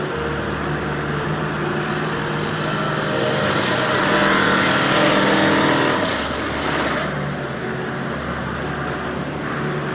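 Car engine and road noise while driving, growing louder for a few seconds in the middle and then settling back.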